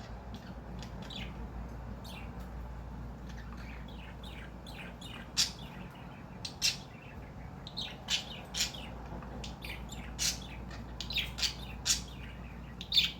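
Cockatiel giving short, sharp chirps and squawks, scattered at first and coming more often and louder in the second half. These are irritated calls while being scratched, which the owner puts down to the many new pin feathers of her molt making scratches painful.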